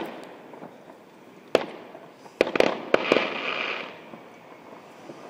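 Fireworks going off: a single bang about a second and a half in, then a quick run of four bangs around two and a half to three seconds, followed by about a second of crackling.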